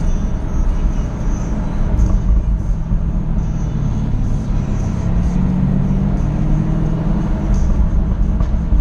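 Jaguar F-Type SVR's supercharged V8 running at speed, a steady low engine drone mixed with road noise, the engine note growing stronger about five seconds in.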